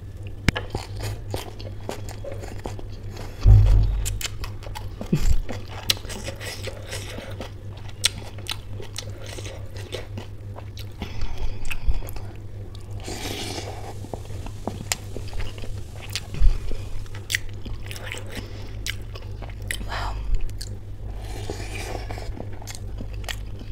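Close-miked eating of samosa chaat: bites into fried samosa and wet chewing, with many small mouth clicks and smacks. A steady low hum runs underneath, and a few louder low thumps stand out.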